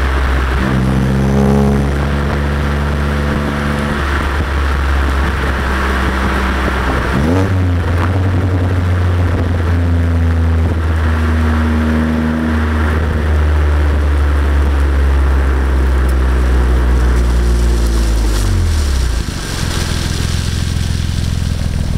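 Exhaust of a BMW E90 335i's turbocharged inline-six, through an Autobahn Exotics exhaust with high-flow secondary cats and catless downpipes, heard while driving. The engine note changes pitch, with a quick rise about seven seconds in, then a long steady drone that slowly falls, and a brief dip near the end, over wind noise on the microphone.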